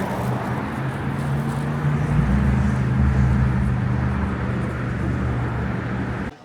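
Vehicle engine running steadily with road or engine noise; its pitch steps up about two seconds in. The sound cuts off abruptly near the end.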